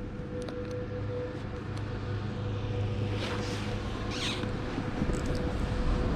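Low wind rumble on the microphone with a faint steady hum, and two short scrapes of snow sliding underfoot about three and four seconds in.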